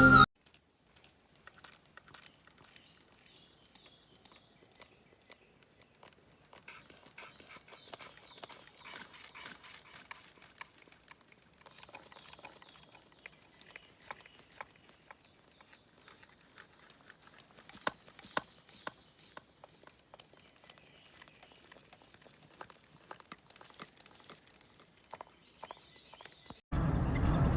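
Faint animal sounds: scattered light clicks and taps, with a few soft high chirps now and then.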